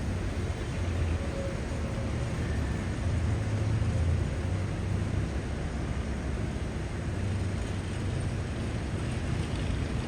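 Steady low rumble of city road traffic, with the level swelling and easing slightly as vehicles pass.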